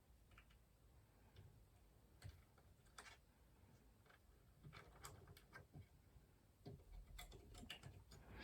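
Faint, irregular clicks and light taps of computer hardware being handled during a PC build.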